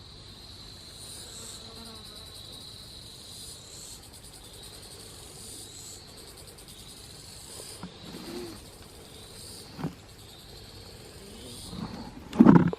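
Chorus of insects in woodland: a steady high-pitched trilling buzz, with fainter pulsing layers above it. A few brief handling noises break in, the loudest just before the end.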